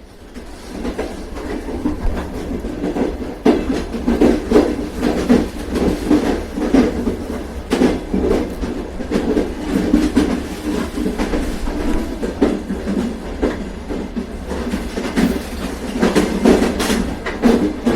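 Train running along the track: a steady rumble with the clickety-clack of wheels over rail joints and frequent knocks, building up over the first couple of seconds.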